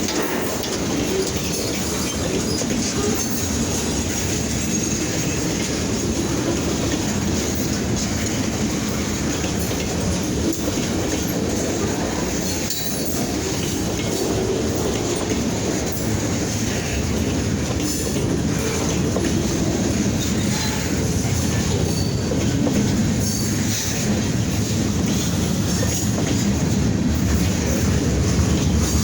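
Train rolling along the rails: a steady rumble of wheels on track with faint clicking from the rail joints.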